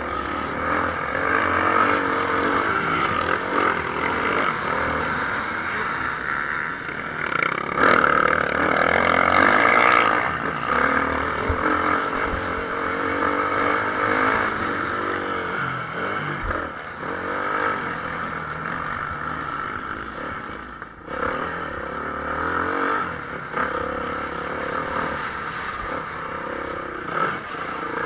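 Several motocross motorcycles racing, their engines revving up and down as they run the track. It grows louder about eight seconds in, when one passes close, and dips briefly near the end.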